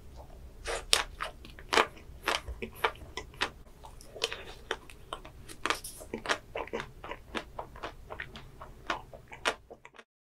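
Chewing a chocolate-coated ice cream bar: the hard chocolate shell cracks and crunches between the teeth in many quick, irregular crunches. The crunching stops abruptly near the end.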